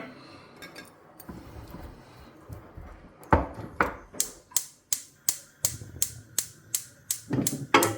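Gas hob's spark igniter clicking rapidly and evenly, about three clicks a second, as a burner is lit under the pan.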